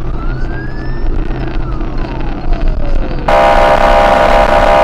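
Police car siren wailing through one slow rise and fall. About three seconds in, a loud, steady horn blast cuts in and holds.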